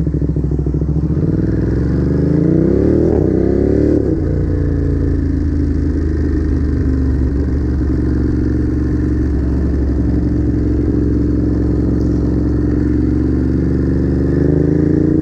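Ducati Monster's V-twin engine running under way. It revs up over a couple of seconds, drops in pitch about four seconds in as it shifts up a gear, then pulls steadily with the pitch climbing slowly.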